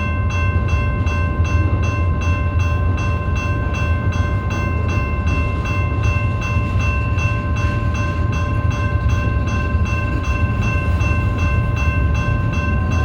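BNSF freight train rolling past with a steady low rumble. Over it is a ringing of several steady high tones that pulses evenly about four times a second.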